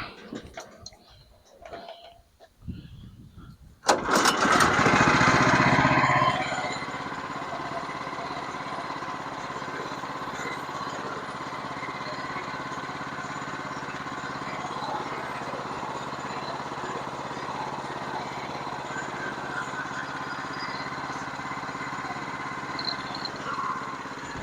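A sawmill's small engine starts up about four seconds in. It runs loud for about two seconds, then settles into a steady idle.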